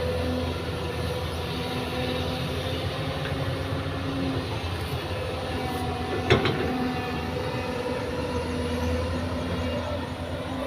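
Heavy diesel machinery running at a steady drone, with one sharp knock about six seconds in.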